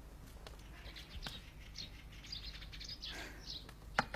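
Faint birds chirping, many short high calls. There is a single sharp click about four seconds in.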